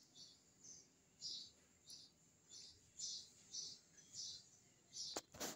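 Faint, evenly repeated single chirps from a small bird, about one every half second or so. Two sharp clicks come near the end.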